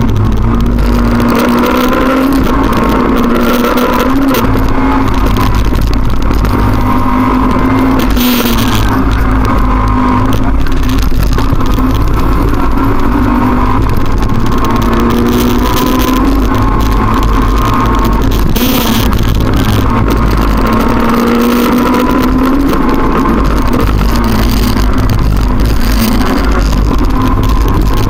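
Rally car engine running hard on a stage, heard on board: the revs climb repeatedly and drop back sharply at each gear change or lift.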